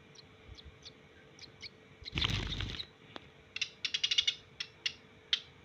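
A ciblek gunung songbird giving short, high, downward chirps, then a fast rattling run of sharp clicky notes about three and a half seconds in, followed by a few single notes. About two seconds in there is a louder, half-second rustling burst.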